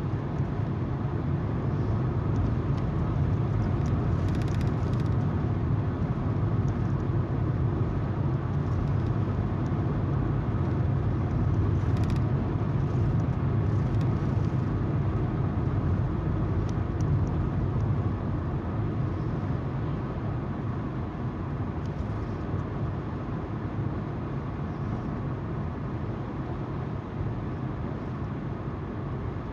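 A car driving along at speed: a steady low rumble of tyres on the road with the engine's hum, with a few faint ticks and a slight easing in loudness in the second half.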